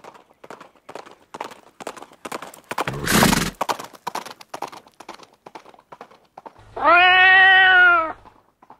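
A horse's hooves clip-clopping in a run of irregular clicks, with a short loud blast of breath about three seconds in. Near the end the horse neighs once, a call of about a second and a half that rises a little and then falls.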